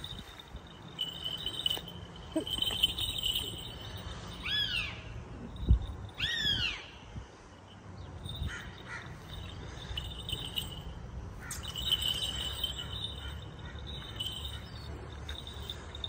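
Birds calling: two short whistled calls that rise and fall, about two seconds apart, over a steady high trilling that comes and goes, with a single dull thump between the two calls.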